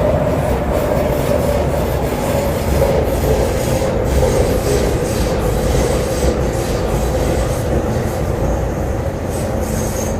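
MTR Tseung Kwan O line C-Train running between stations, heard from inside the carriage: steady rolling rumble with a constant whining squeal from the wheels and motors.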